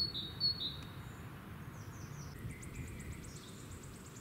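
Small songbirds calling: a few short, high, falling chirps in the first second, then fainter chirps and a quick high trill, over a steady low rumble.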